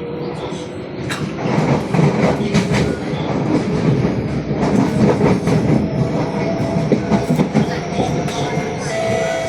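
Interior of an SMRT C151B metro train car running between stations: wheels on the rails rumbling and clattering, growing louder about a second in. A steady tone from the running gear comes in near the end.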